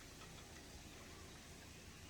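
Near silence: faint, steady background noise.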